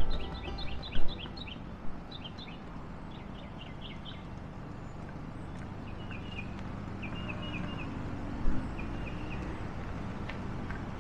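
Birds chirping: a quick run of short, high notes near the start, then a few short repeated phrases later on, over a low steady rumble. A couple of louder thumps come in the first second.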